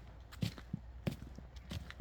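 Footsteps of a person walking at a steady pace, three distinct footfalls about two-thirds of a second apart.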